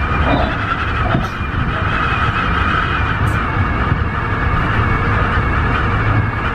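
Tobu 50090 series electric train running at speed: a steady low rumble with a level hum above it.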